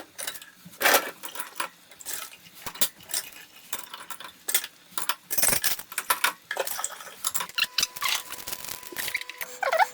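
Dishes, glasses and cutlery clinking and clattering against each other, as when dishwasher racks are handled. A thin steady tone sounds over about the last two seconds.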